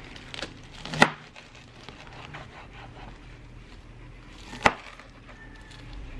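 Knocks on a wooden cutting board during kitchen prep: two sharp, loud knocks about three and a half seconds apart, with lighter clicks and taps between them.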